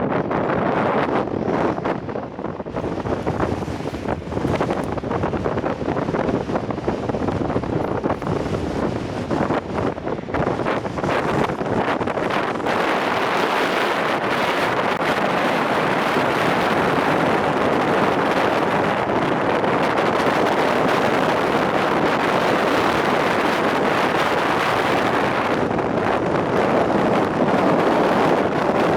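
Strong wind blowing hard across the microphone: a loud, rushing noise with gusts, patchy at first and steady and full from about halfway.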